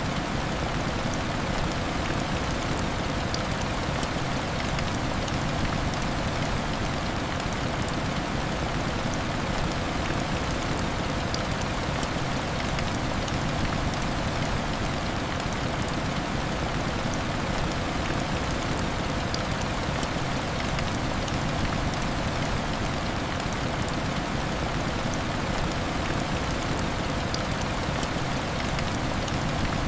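Heavy rain falling steadily on window glass, a dense even hiss with fine ticks of single drops throughout.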